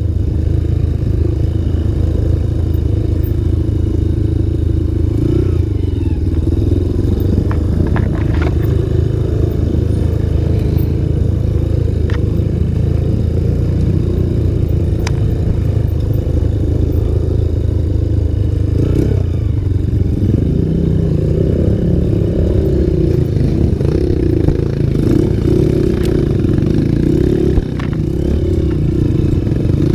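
Single-cylinder four-stroke trail motorcycle engine running steadily as the bike rides a dirt trail, its pitch shifting with the throttle. Short knocks and rattles come through now and then.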